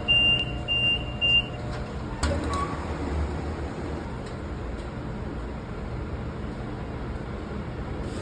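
An electronic appliance beeper gives a few quick, high, even beeps, with a single knock about two seconds in, over a steady low hum of kitchen machinery.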